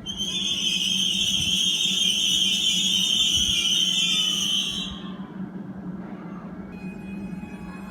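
A train's brakes squealing shrill and steady for about five seconds over a low steady hum. Near the end a fainter whine of several thin steady tones sets in.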